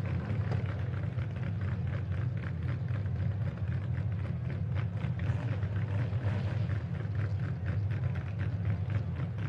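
Engines of many demolition derby mini trucks running together on the track, a steady low rumble with a rapid crackle on top.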